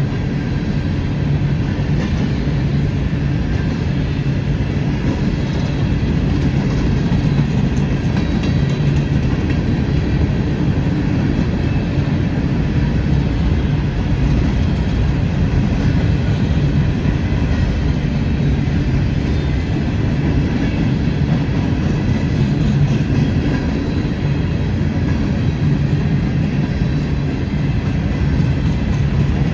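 Freight train cars rolling past with a steady, continuous rumble.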